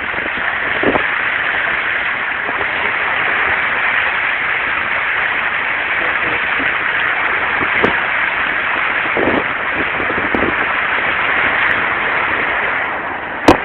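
Steady, loud rush of water, an even hiss with a few low thumps, and one sharp click just before the end.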